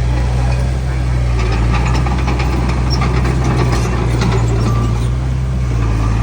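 Heavy diesel engine of earthmoving machinery running at a steady speed, a deep even drone with faint scattered clicks and rattles above it.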